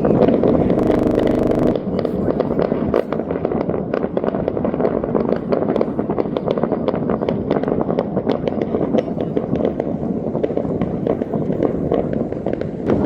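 Fireworks going off in a dense, rapid run of sharp cracks and pops, several a second, over a steady rumbling haze.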